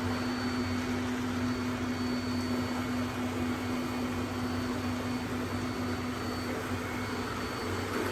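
Robot vacuums running, a steady whirring hum with one constant low tone and a faint high whine.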